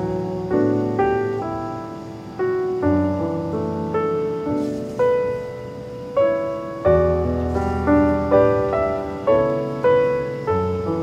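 Solo piano music: a gentle melody of single struck notes that ring and fade, a new note every half second or so.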